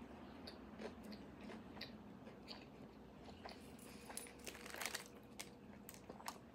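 Faint chewing and mouth clicks of a person eating an empanada, with a few slightly louder bites about five seconds in.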